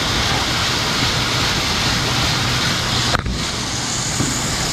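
Grain-handling machinery running: a U-trough conveyor and bucket elevator leg, making a loud, steady noise with a low hum underneath. There is a brief dropout about three seconds in.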